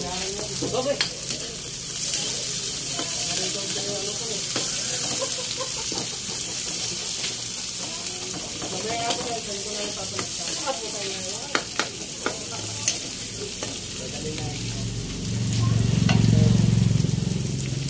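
Chopped red onion and garlic sizzling in hot oil beside browned pork pieces in a pan while they are stirred, with a few sharp clicks of the utensil against the pan. A low rumble swells briefly near the end.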